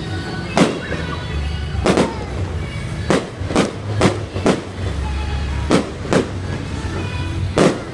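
Fireworks going off in about nine sharp, irregularly spaced bangs over loud music.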